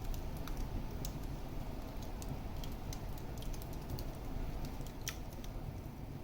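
Wood fire burning in a fireplace, crackling with many irregular sharp pops over a steady low rumble of the flames; one louder pop about five seconds in.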